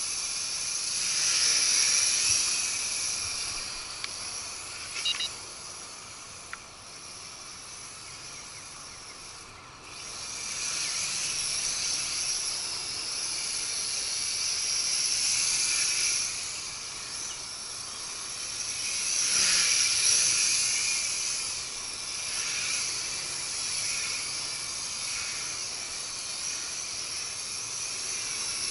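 Nihui U807 mini quadcopter flying on WLtoys V636 motors, its small motors and propellers giving a high whine that swells and fades several times. There are a couple of short clicks about five and six seconds in.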